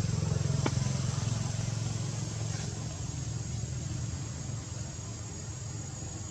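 A small engine running steadily with a low, evenly pulsing hum, with one sharp click about a second in.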